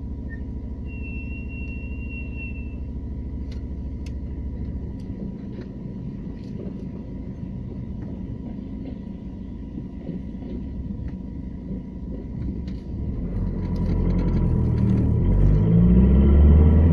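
Renault Laguna II 1.9 dCi four-cylinder turbodiesel engine running steadily, then, about 13 seconds in, pulling harder and getting louder with rising pitch as it accelerates under load. It is recorded to capture odd noises that the owner hears from the engine only under load.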